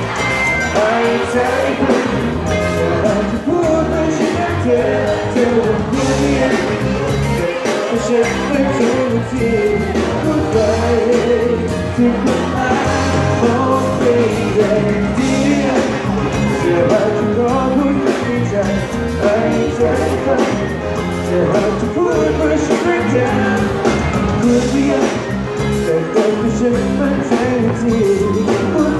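Live amplified pop song: a male singer with a backing band, the sound of a concert PA.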